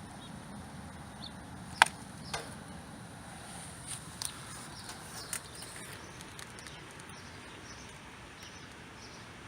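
Quiet outdoor background with a steady low hum and a few short, sharp clicks and chirps; the loudest is a single sharp click a little under two seconds in, followed half a second later by a short falling chirp.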